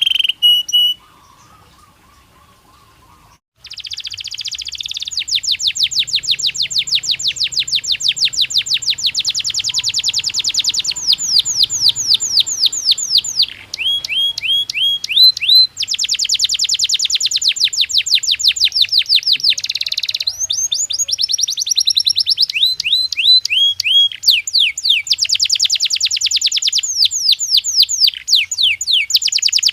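Domestic canary singing: long runs of rapid trilled notes. After a short pause near the start the song runs almost unbroken, with a few rising slurred whistles mixed in between the trills.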